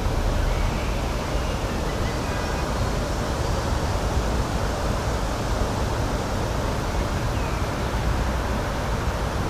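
Steady outdoor rushing ambience, an even noise heaviest in the low end, with a few faint short high notes about two seconds in and near the end.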